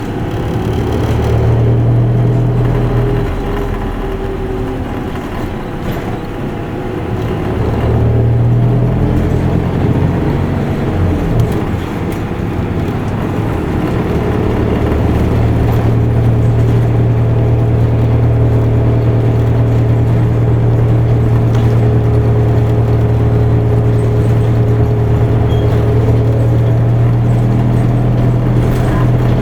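Isuzu Erga Mio bus's diesel engine and drivetrain heard from inside the cabin while driving. The engine grows louder for a couple of seconds near the start and again about 8 seconds in, eases off, then holds a loud, steady pull from about 14 seconds on.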